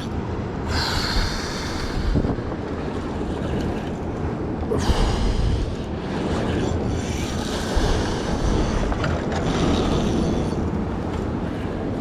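Wind buffeting the microphone over the wash of waves around a small boat, with several louder hissing surges of water a few seconds apart.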